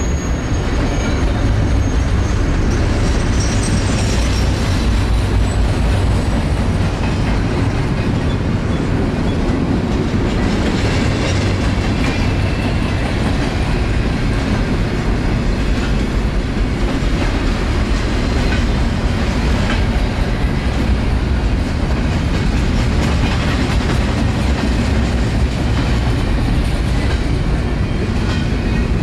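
Double-stack intermodal freight train rolling past: a steady rumble and clatter of steel wheels on the rails, with a faint high wheel squeal fading away in the first couple of seconds.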